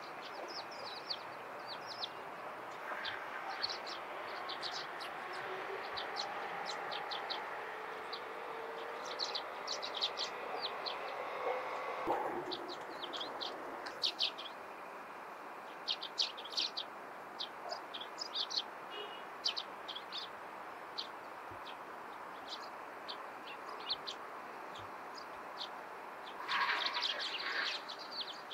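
Small wild birds giving short, high chirps scattered throughout, with a dense flurry of chirps near the end, over a steady background noise.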